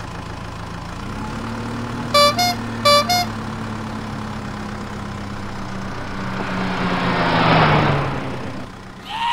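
Truck engine sound running steadily, with two short two-note horn honks about two and three seconds in, then a swelling rush of noise that fades near the end.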